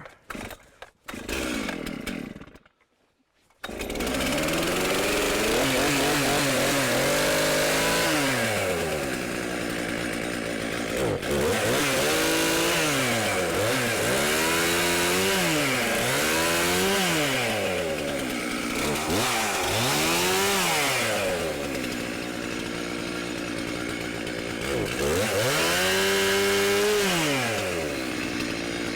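Chainsaw starting up about three and a half seconds in, then revving and bogging down again and again as it cuts through grapevines and brush, its pitch rising and falling with each cut.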